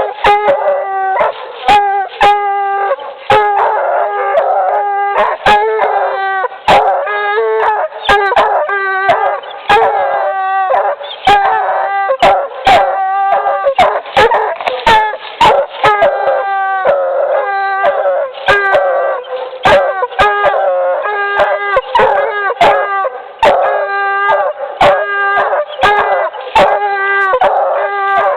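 Two young Bluetick Coonhound pups baying at a tree, calling over each other one bark after another without a break: the tree bark that marks where they have run the scent trail to its end.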